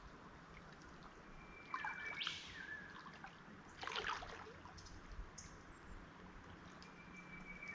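A bird calls twice, about two seconds in and near the end. Each call is a held whistle that ends in a sharp crack, followed by lower falling notes. A short burst of noise comes about halfway through, over faint trickling water.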